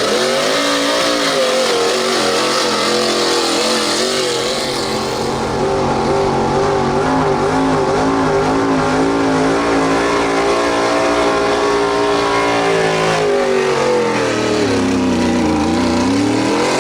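Street stock gas pulling truck's engine held at full throttle under load pulling the sled, its pitch wavering. Near the end the revs sag, then climb sharply.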